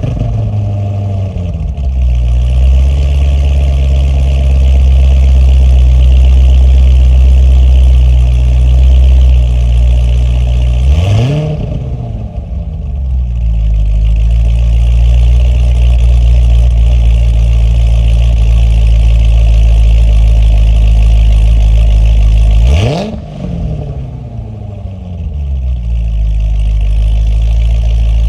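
Corvette ZR1's supercharged V8 with a performance camshaft idling, the idle settling lower in steps just after it fires up. It is blipped twice, once about a third of the way in and again near the end, each rev rising and falling back to idle.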